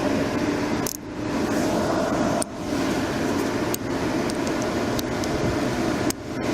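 Steady vehicle running noise, with a few short clicks or knocks.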